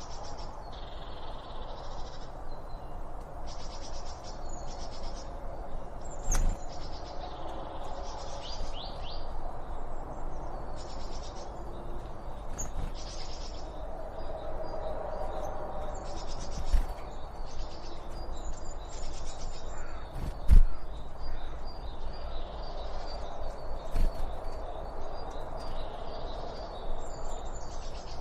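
Several wild birds chirping and calling continuously, overlapping, high-pitched. Four sharp clicks or knocks cut through, the loudest about two-thirds of the way in.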